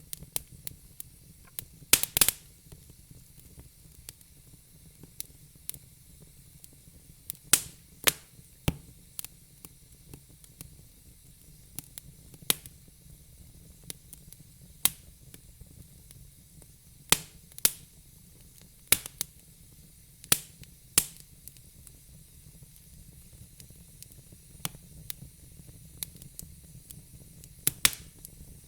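Wood fire crackling in a fire pit: sharp pops and snaps at irregular intervals over a faint steady hiss, with the loudest pops about two seconds in.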